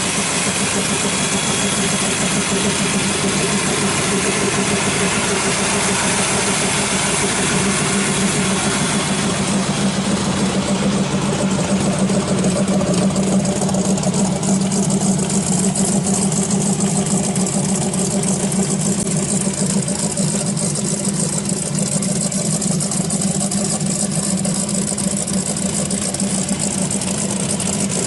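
1937 Chevy truck's 383 stroker V8 idling steadily.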